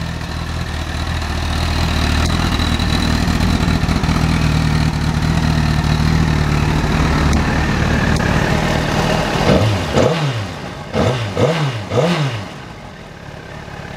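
Honda CBR1000RR SC57's 998 cc inline-four engine idling steadily, then blipped about five times in quick succession, each rev rising and falling sharply, before settling back to a quieter idle near the end.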